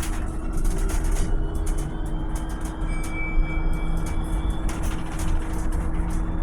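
Volvo BZL electric bus running, a low rumble under a steady electric whine, with higher-pitched tones joining about a second and a half in and fading out near five seconds.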